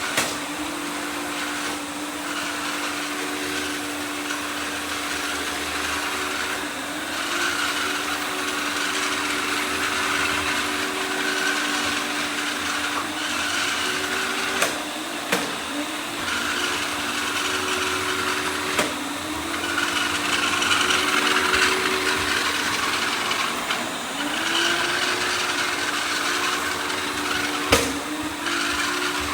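Several robot vacuum cleaners running at once: a steady motor hum with a hiss of suction over it, and a second tone that slides up in pitch and holds, again and again. A few sharp knocks break through, one near the start, two around the middle and one near the end.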